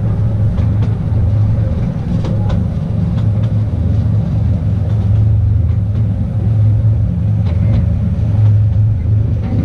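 The small narrow-gauge Artouste tourist train running steadily along its track, a constant low rumble of the wheels and cars on the rails with faint light clicks now and then.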